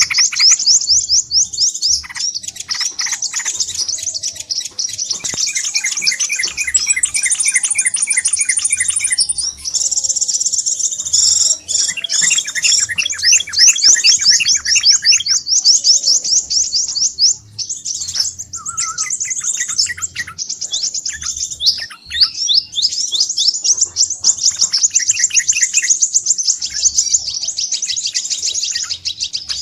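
Crimson sunbirds (sepah raja) calling busily, several at once, in fast repeated series of high, sharp chirps mixed with lower trills: a noisy chorus of the kind used as a bird-trapping lure.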